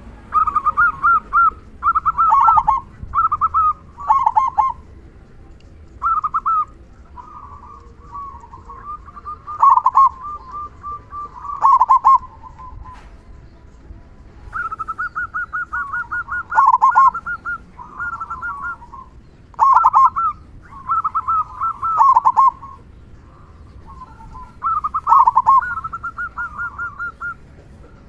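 Zebra dove (perkutut) singing its cooing song again and again: each phrase is a run of quick pulsed notes followed by deeper, big 'kung' notes. The phrases come in bursts every second or two with short pauses between them.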